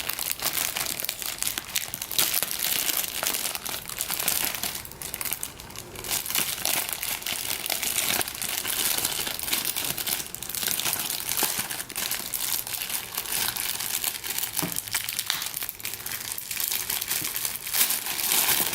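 Plastic packaging crinkling and rustling as resin model-kit parts are unwrapped by hand, a dense run of crackles with occasional tearing.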